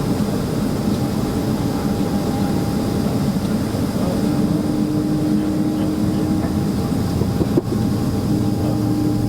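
Steady engine noise and hum of a Boeing 767-300ER heard inside the passenger cabin, with one short knock about three-quarters of the way through.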